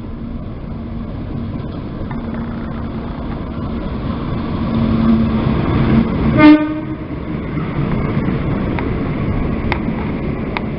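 A train passing through the station, its steady rumble building over the first six seconds. The locomotive's horn sounds a short blast about six and a half seconds in.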